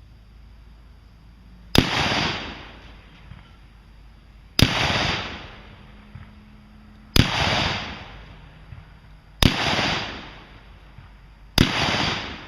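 Five gunshots fired at a steady pace, about two and a half seconds apart, each a sharp crack followed by an echo rolling away for about a second.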